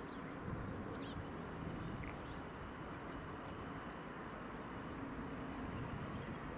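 A few faint, short bird chirps spaced a second or more apart, over a low steady background rumble.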